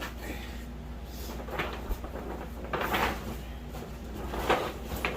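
Grow tent fabric and frame being handled: about four short bursts of rustling and scraping, the loudest near the middle and about four and a half seconds in.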